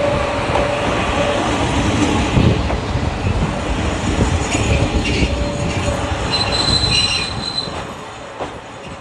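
JR Shikoku KiHa 54 diesel railcar pulling into a station: running rumble with wheels and brakes squealing in several high tones, dying down near the end as it slows to a stop.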